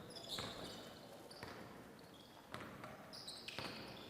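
Faint basketball bounces on a hardwood gym floor, about one a second, with short high-pitched sneaker squeaks between them.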